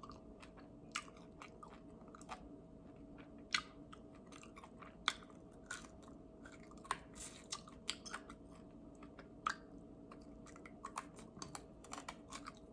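Chewing and gnawing on a barbecue chicken wing held to the mouth: irregular small crunches and clicks, with a faint steady hum beneath.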